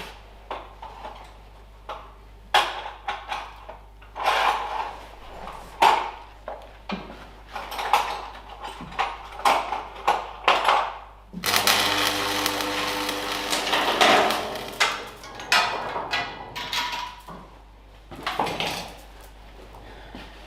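Hand tools knocking and clinking on metal parts at irregular intervals, with a small motor running for about three seconds around the middle.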